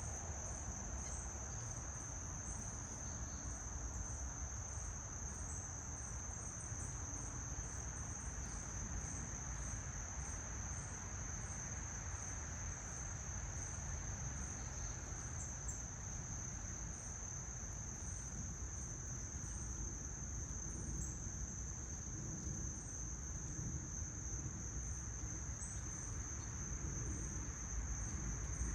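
An insect chorus trilling without a break on one steady high pitch, over a low, even outdoor rumble.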